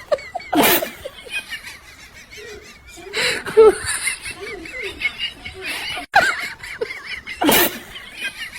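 People laughing, with several loud bursts of laughter among quieter voices.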